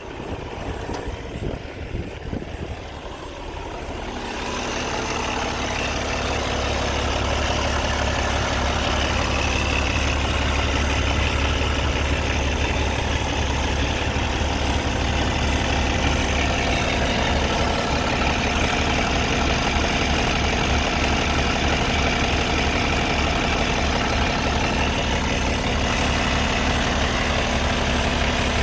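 Kenworth T800's Cummins ISX diesel engine idling steadily, swelling up loudly about four seconds in and then holding an even, deep running note.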